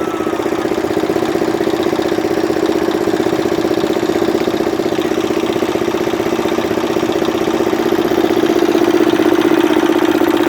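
A motor engine running steadily with an even pulsing hum, a little louder near the end.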